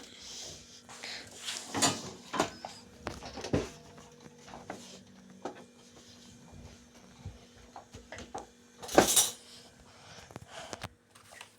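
Dishes and cutlery clinking and knocking as a dishwasher is loaded, with scattered small clicks and one louder clatter about nine seconds in.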